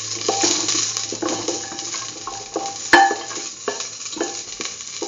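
Garlic cloves and cumin seeds sizzling in hot oil in a stainless steel pan, with repeated clinks and knocks against the metal pan as they are stirred; the sharpest knock comes about three seconds in.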